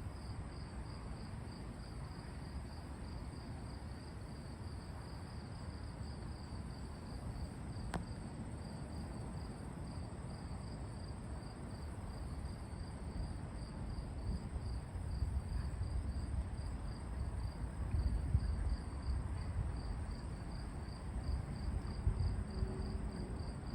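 An insect chirping steadily in an even pulse, about two to three chirps a second, over a steady high whine. A low rumble underneath grows louder in the second half.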